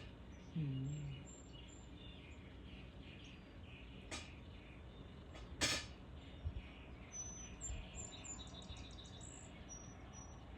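Small birds chirping faintly, with short high chirps clustered in the second half over a rapid repeating chatter. Two sharp clicks come near the middle, the second the loudest sound, and a brief low hum sounds about half a second in.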